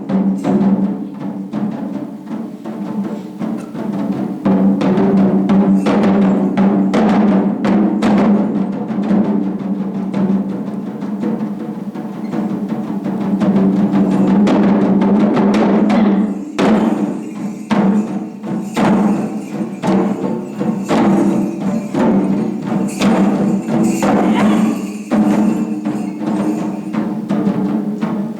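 Japanese taiko drums playing a dense, fast rhythm of strikes. The playing drops back briefly about 16 seconds in, then picks up again.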